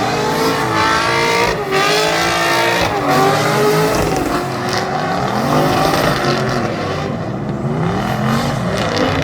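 Drift car at full drift: the engine revs rise and fall repeatedly over continuous tyre noise.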